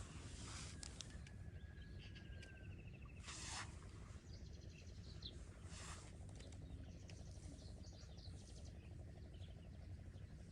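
Outdoor ambience: small birds chirping and giving short trills now and then over a steady low rumble, with a few brief rustles.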